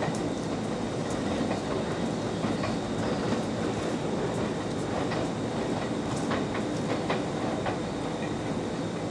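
Train running on the track, a steady rumble with faint clicks of the wheels over rail joints.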